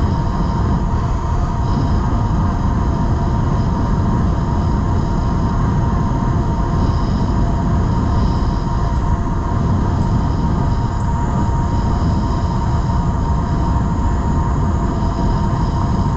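Wind rumbling on the microphone of a moving e-bike, with a steady high whine from the bike running at speed.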